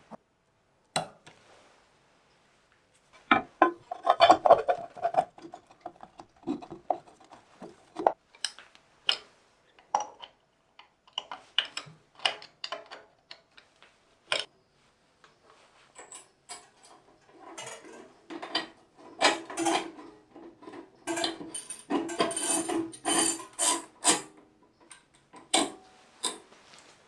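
Small metal parts and hand tools clinking and knocking in irregular single strikes. Near the middle it turns to a stretch of scraping and rubbing mixed with clinks.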